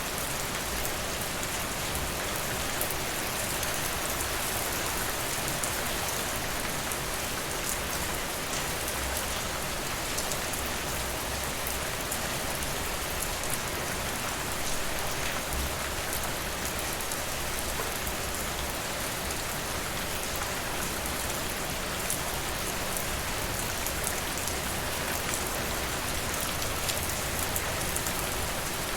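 Steady rain falling, an even hiss, with light crackling from a fireplace mixed in.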